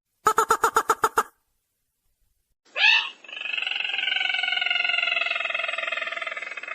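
Recorded lure call of the sintar merah bird. First comes a quick run of about eight clipped notes, then a pause. After about two and a half seconds there is a short rising note, followed by a long buzzy call that slowly falls in pitch.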